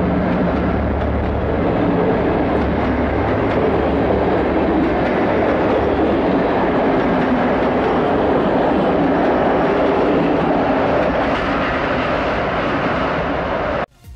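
A train running past on the track, a loud, steady rumble of wheels on rail that cuts off abruptly near the end.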